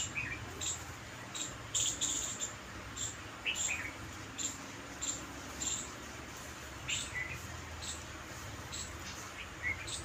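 Birds chirping: many short high chirps at an uneven pace, one or two a second, with a few lower calls that slide downward, over a low steady background hum.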